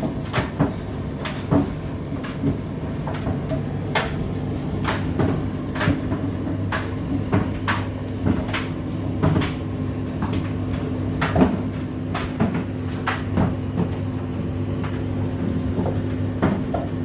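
Indesit IDC8T3 condenser tumble dryer running: a steady motor hum with irregular knocks of the load tumbling against the turning drum, roughly one or two a second.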